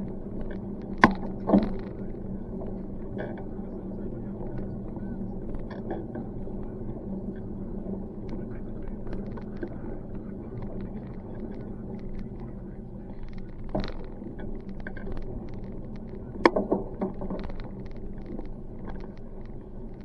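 Steady rumble of a bicycle rolling over pavement with a faint steady hum. A few sharp knocks come as the bike is jolted over bumps: two about a second in, and a short cluster about three-quarters of the way through.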